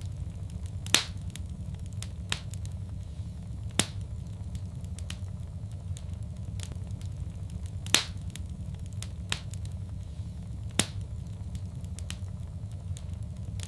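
Wood fire in a fireplace crackling, with sharp pops every few seconds over a steady low rumble.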